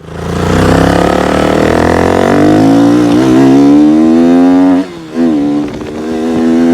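KTM Duke 200's single-cylinder engine revving up: the pitch climbs steadily for about four and a half seconds, drops sharply just before five seconds, then climbs again and holds high.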